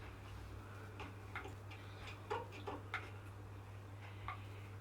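Water dripping from an open basin tap into the sink after the supply has been isolated: about seven single drops at irregular spacing as the last water drains out of the tap.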